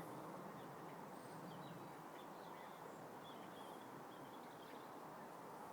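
Faint, steady outdoor background hiss with a few faint, short bird chirps between about one and a half and four and a half seconds in.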